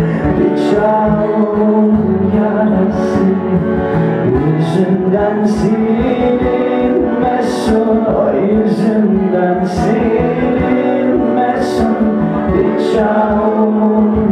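Acoustic band playing an instrumental passage of a Black Sea Turkish folk tune, with plucked and strummed strings over a steady beat.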